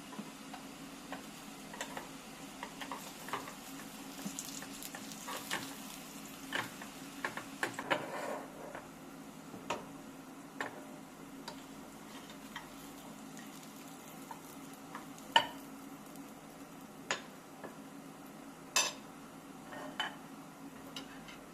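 Kitchen work: scattered clinks and taps of utensils against pots and dishes, over a steady low hum. The clinks are irregular, with a busier, scraping stretch in the first half and two sharp knocks later on.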